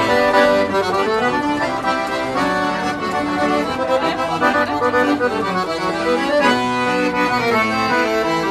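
Accordion (sanfona) playing an instrumental passage of northeastern Brazilian folk music, a melody over held chords, with no singing.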